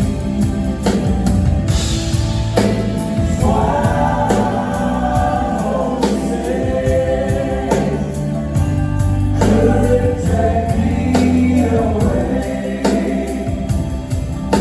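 Live band playing a slow song, with several voices singing long held notes in harmony over bass and a steady drum beat.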